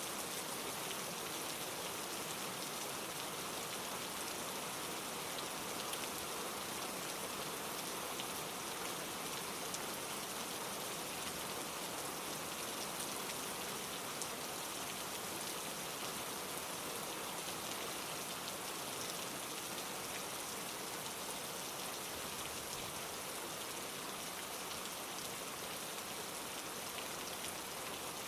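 Steady rain falling on leaves, an even hiss dotted with many small drop patters.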